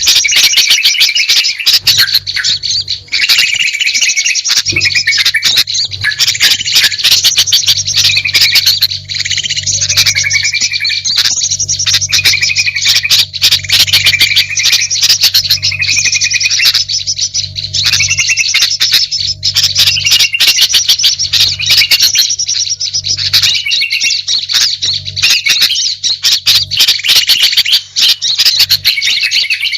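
Bird-lure recording of several small songbirds calling at once: a dense, unbroken stream of rapid chirps, trills and squawky notes, with a steady low hum underneath.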